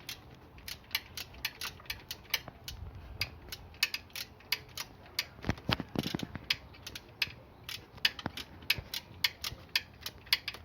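Ratchet wrench clicking in uneven runs, about four clicks a second, as a fastener is turned by hand, with a louder clatter about six seconds in.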